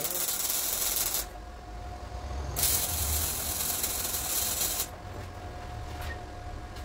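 Compressed air hissing in two long bursts, the first lasting about a second and the second about two seconds, typical of an air spray gun or blow gun in a body shop. A faint steady tone runs underneath.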